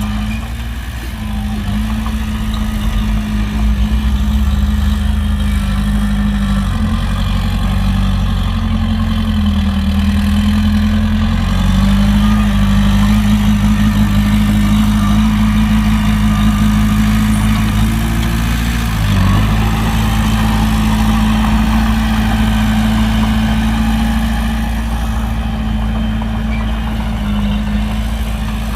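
Heavy diesel engine of an earthmoving machine running steadily, its revs dipping briefly and picking up again a few times.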